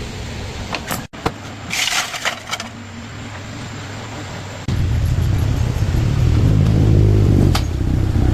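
Motorcycle engine running. About halfway through it becomes suddenly much louder and stays that way.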